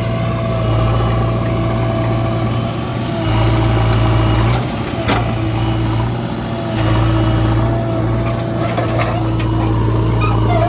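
JCB 3DX backhoe loader's diesel engine running, its low hum swelling and easing every few seconds as the machine works under load. A single sharp click about five seconds in.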